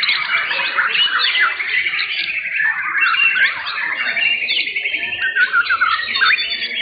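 Many caged white-rumped shamas (murai batu) singing at once, a dense tangle of overlapping whistles and rapid trills.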